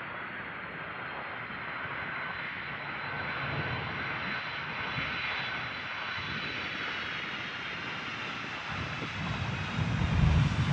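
Boeing 747 freighter's four jet engines on approach, a steady rushing noise with a faint high whine. Near the end, gusts buffet the microphone with a low rumble.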